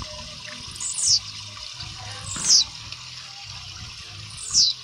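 Young blue-black grassquit (tiziu) practising its song: three short, high notes, each sliding downward, over steady background noise.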